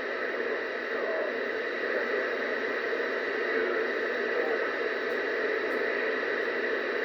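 CB radio receiver on an open 27 MHz channel, hissing with steady static between transmissions. The hiss stays even throughout and is cut off below the low bass and above the treble, as heard through the radio's speaker.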